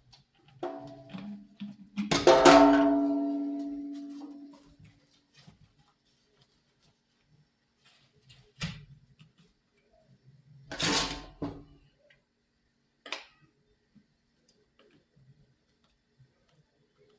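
A loud strike that rings with a clear pitched tone and fades over about three seconds, followed later by a few short knocks and a brief clatter.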